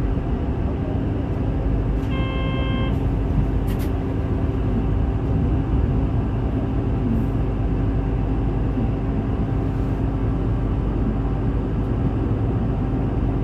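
Route bus engine and drivetrain running steadily, heard inside the passenger cabin. About two seconds in, a short electronic chime sounds for about a second, followed by a brief click.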